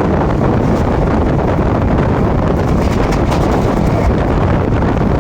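Train running at speed: a loud, steady rumble with wind buffeting the microphone.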